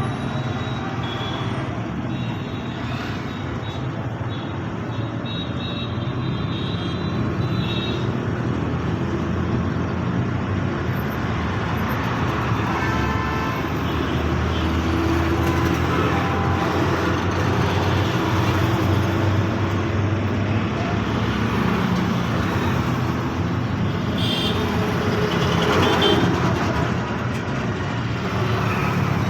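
Heavy road traffic of trucks and cars, engines running steadily, with horns honking in short spells several times.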